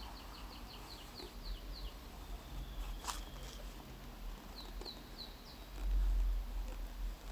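A bird calling: a quick run of high, falling chirps, then four more about five seconds in. A low dull bump near six seconds is the loudest sound.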